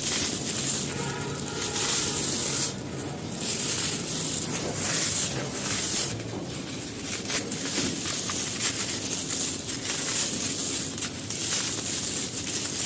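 Gritty crumbly material being crushed and crumbled by hand: a dense, continuous fine crackling and grinding.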